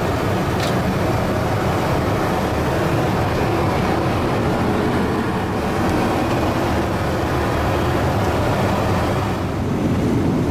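Steady cabin noise inside a Boeing 777-300ER in flight, the even rush of engine and airflow noise, with a faint click about half a second in.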